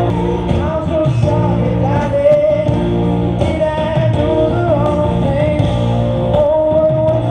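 Rock music: a band with guitar plays under a sung lead vocal.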